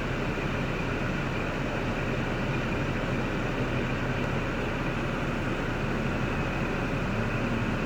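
3.6L LY7 V6 engine of a 2005 Cadillac STS idling steadily, a low even hum with no change in speed.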